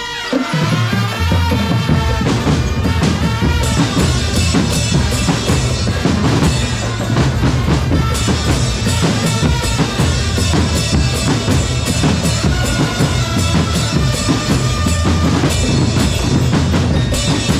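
Drum corps percussion playing a steady, fast beat on bass drums and snares, with a melody line carried over the drums.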